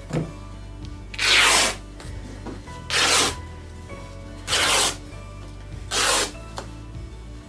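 Fabric being torn by hand into strips: four short ripping tears, about a second and a half apart, over background music.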